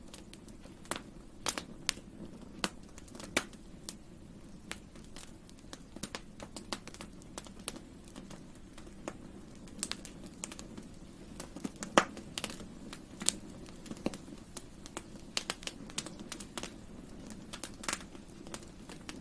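Campfire burning: wood crackling with irregular sharp pops over a steady low rush of flames, one louder pop about twelve seconds in.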